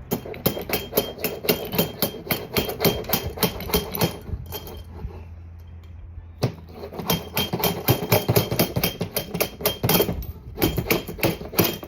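Quick, regular metallic tapping from a hand tool on scooter engine parts, about four to five strikes a second, in two runs with a short pause around the middle.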